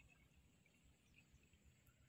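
Near silence: faint outdoor background with a few faint, scattered high chirps.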